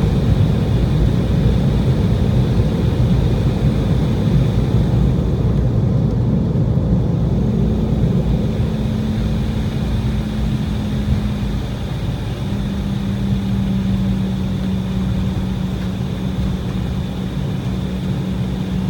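Cabin noise of an Embraer E190 rolling on the ground after landing: a steady, dense rumble from its twin GE CF34 turbofans and the airframe. A steady hum joins in about a third of the way through and shifts slightly in pitch around two-thirds of the way, as the rumble eases a little.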